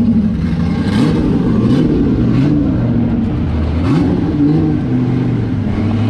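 Drift car engine running loud and close, its revs rising in short pulls a few times.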